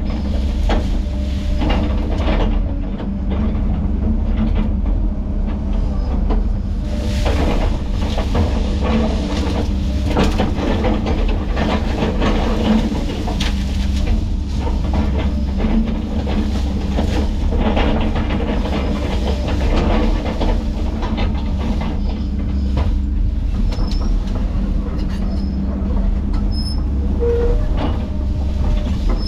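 Heavy diesel land-clearing machinery running steadily under load, with frequent cracks and clanks throughout.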